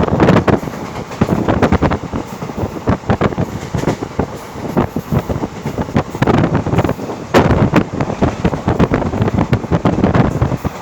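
A train running along the rails, heard from on board: rapid, irregular knocks from the wheels over a steady rush of noise, with wind buffeting the microphone.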